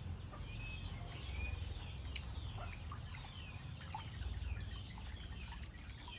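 Many small birds chirping, short high calls overlapping one another over a steady low rumble.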